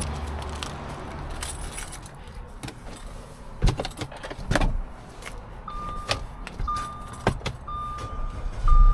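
Sharp clicks and a jangle of keys in a 2012 Audi Q5. From about halfway in, the car's electronic chime beeps one steady tone about once a second.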